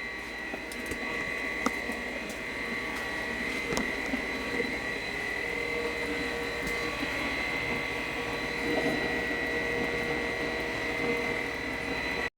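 Steady machinery sound with a high-pitched whine and a lower hum, with a few faint clicks.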